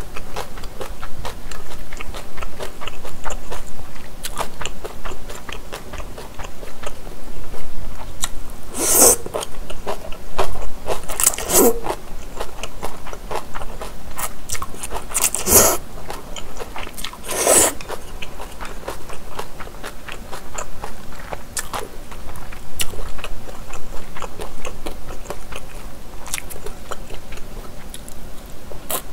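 Close-miked chewing of japchae glass noodles, with wet mouth clicks throughout and four louder slurps of noodles about 9, 11, 15 and 17 seconds in.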